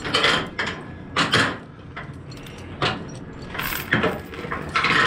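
About five short scraping swishes, spaced roughly a second apart, as a flatbed trailer's cargo strap is pulled and worked over the load.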